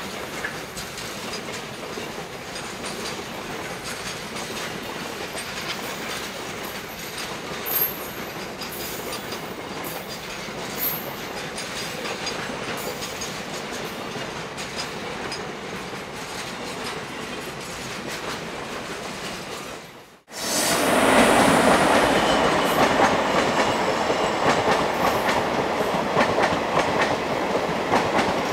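Container freight wagons rolling past on the track: a steady rumble of wheels with clacking over rail joints, and two brief sharp clanks about 8 and 11 seconds in. About 20 seconds in the sound cuts off for an instant and gives way to a louder passing passenger train, its coaches rumbling and clattering over the rails.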